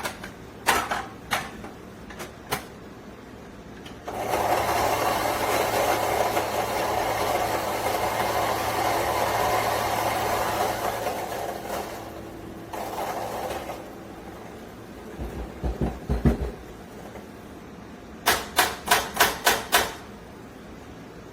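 Fellow Ode electric burr grinder grinding coffee beans: its motor starts about four seconds in and runs steadily for about eight seconds, with a shorter run after it. Low thuds and then a quick series of about six sharp taps follow near the end.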